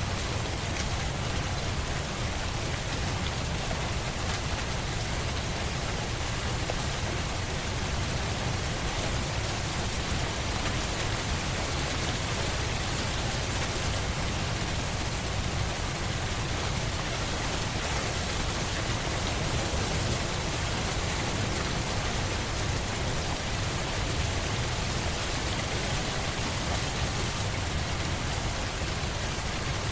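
Steady rainfall, an even hiss of rain with a low rumble beneath it and no distinct drops or thunder standing out.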